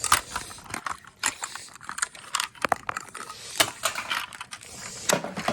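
Small plastic toys being handled and moved about, giving irregular sharp clicks and clatter.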